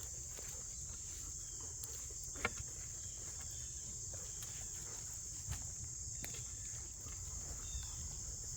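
Steady high-pitched drone of an insect chorus, with scattered clicks of footsteps on the trail and one sharper click about two and a half seconds in.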